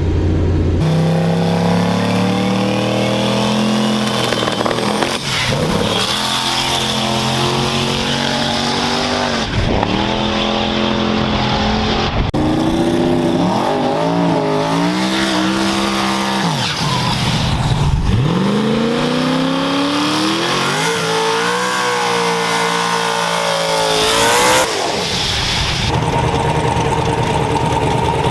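Turbocharged race truck engine at full throttle through a pass, its pitch climbing and then dropping back several times as it shifts gears. Near the end it lets off and settles to a steady lower running sound.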